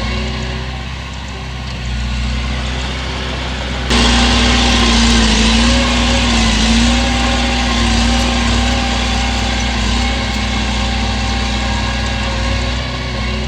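Heavy diesel engine of a Komatsu bulldozer running steadily. About four seconds in, it suddenly becomes louder and brighter and stays that way, its pitch wavering slightly.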